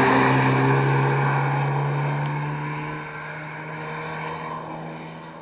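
Rally car engine at high revs, accelerating away; its note rises slightly in pitch as it fades over a few seconds.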